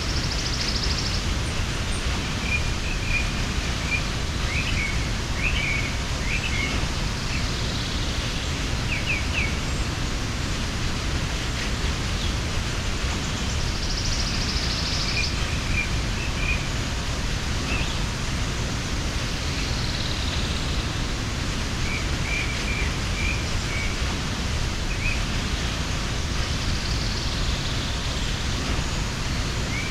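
Steady rush of a mountain waterfall, with short high bird chirps scattered over it, clustered in the first third and again about three-quarters in.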